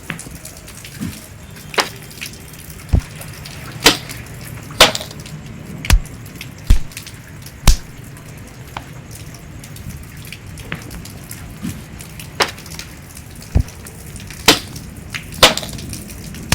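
Rain falling as a steady hiss, with big drops striking a surface close to the microphone as sharp, irregular taps about once a second.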